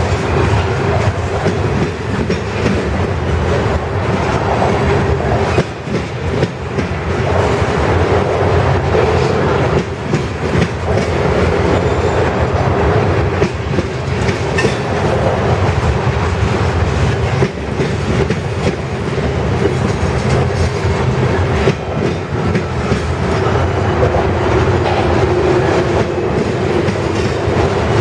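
Freight train cars rolling past, wheels clacking steadily over the rail joints with a continuous rumble of running gear.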